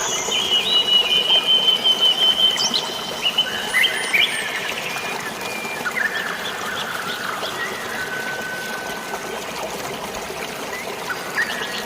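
Steady rush of flowing water with birds singing over it: high held whistled notes and quick trills, busiest in the first few seconds.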